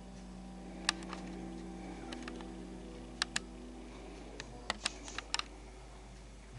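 About ten sharp, irregular clicks and taps, bunched about a second in, around three seconds in, and between four and a half and five and a half seconds in, over a low steady hum.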